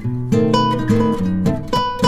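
Music: acoustic guitar being strummed and plucked, one note or chord after another.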